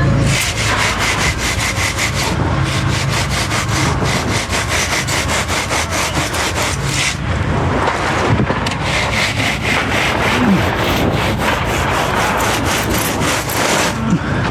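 Fast, rhythmic rasping strokes of a hand tool, about four a second, in two long runs with a short break about seven seconds in.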